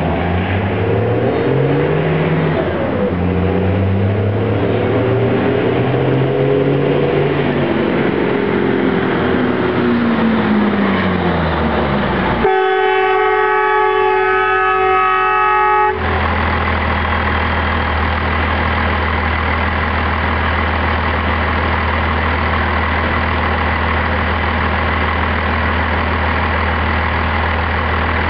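Straight-piped Cummins turbo diesel truck engine, its pitch climbing in steps and then falling away. About twelve seconds in, the truck's horn sounds steadily for three to four seconds. After that the engine runs on at a steady pitch.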